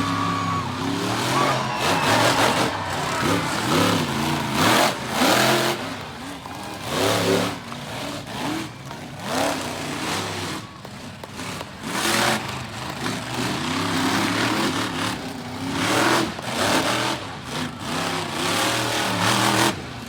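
Monster truck engine revving hard, rising and falling in pitch again and again, with loud bursts every second or two as the throttle is stabbed.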